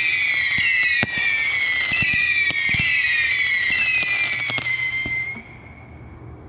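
Fire Factory Rage Missiles, a 92-shot Saturn missile battery, firing a rapid barrage: many overlapping whistling tails, each falling slightly in pitch, with scattered sharp pops. The whistles die away about five seconds in, leaving a much quieter tail.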